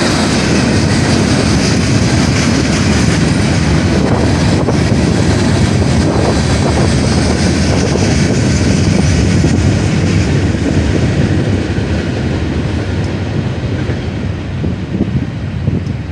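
Freight train cars rolling past close by: tank cars, covered hoppers and gondolas. The steady noise eases off from about two-thirds of the way in as the last cars clear the crossing.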